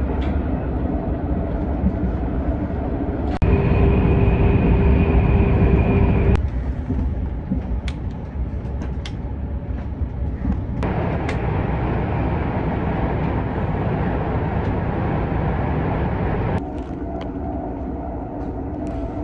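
Running noise of an SRT high-speed train heard inside the passenger cabin: a steady rumble and hiss that changes level abruptly several times. A louder stretch about three seconds in carries a steady whine, and a few light clicks come near the middle.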